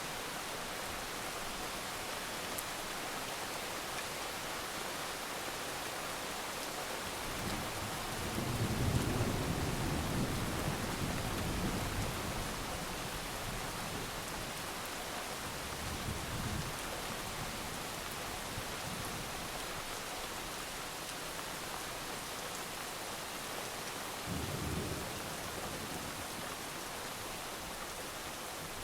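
Steady heavy rain hissing, with thunder rumbling low over it. The loudest roll starts about eight seconds in and lasts some four seconds, a shorter rumble comes around the middle, and another comes a few seconds before the end.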